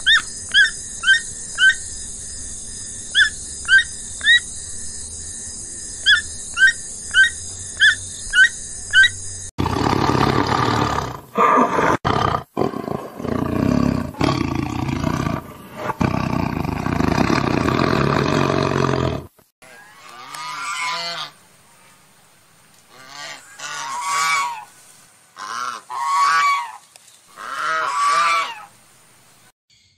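Animal calls in three separate recordings: first a run of short, evenly repeated chirps over a steady high hiss; then a loud, rough, noisy stretch of about ten seconds; then about five drawn-out honking calls, each a second or so long.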